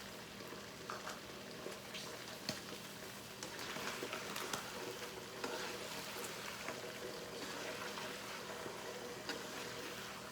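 Chicken and onion frying in hot oil in a pan, a steady sizzle with scattered crackles, fuller for a couple of seconds near the middle. A steady low hum runs underneath.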